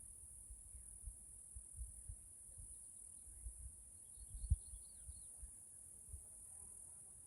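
Cicadas buzzing in a steady, high-pitched drone, with irregular low thumps on the microphone.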